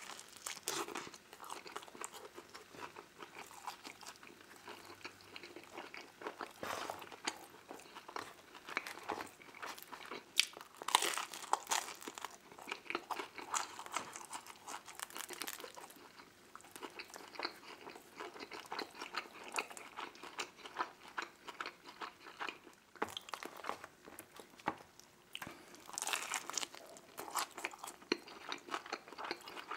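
Biting and chewing deep-dish pepperoni pizza: a steady run of small crackles and clicks from the mouth, louder for a while about a third of the way in and again near the end.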